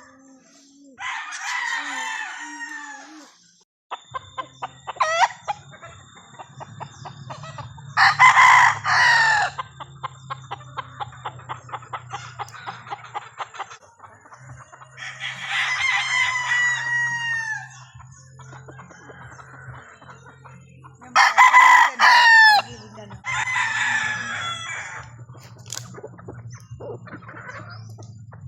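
Several gamefowl roosters crowing one after another, some crows overlapping, about six in all. Clucking runs between the crows, over a steady low hum, with a fast ticking for a few seconds midway.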